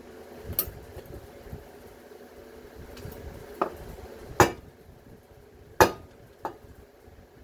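Sharp metal-on-metal hammer strikes, about five spread out, the loudest two a little after the middle, knocking a bearing race out of a washing-machine motor housing.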